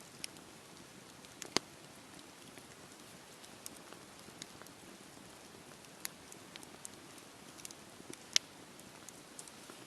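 Wood fire crackling in a fireplace: a steady soft hiss with scattered sharp pops, the two loudest about a second and a half in and about eight seconds in.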